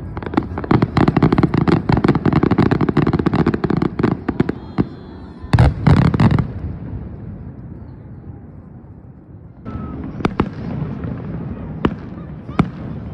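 Fireworks display: a dense, rapid crackling of many small bursts for the first few seconds, then a few heavy booms around the middle that fade away. Near the end, separate sharp bangs of shells bursting one at a time.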